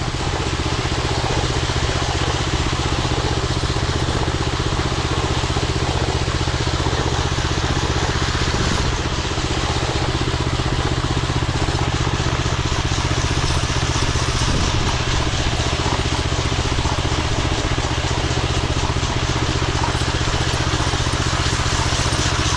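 Ride-on power trowel's engine running at a steady pace while its blades work a setting concrete slab, a constant even hum throughout.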